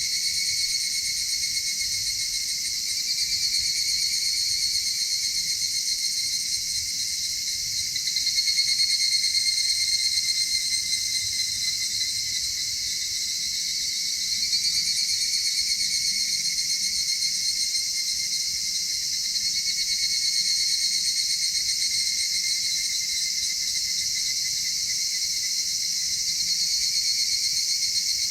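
A dense chorus of insects such as crickets trilling, a continuous high-pitched shimmer that swells and eases every few seconds.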